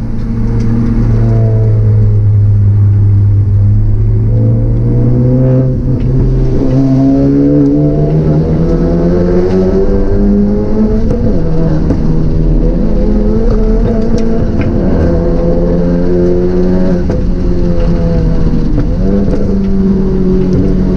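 Car engine running steadily under way, its pitch rising and falling slowly as the revs change.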